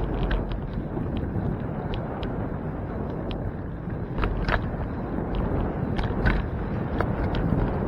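Wind rushing over the microphone and road noise from a bicycle moving along, with many small clicks and rattles; a couple of sharper ones stand out about four and a half and six seconds in.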